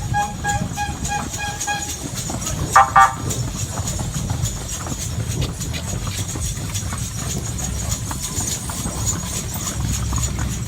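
Horse hooves clopping over a steady low rumble of wind noise. A repeated beeping tone sounds for the first two seconds, and two short loud blasts come about three seconds in.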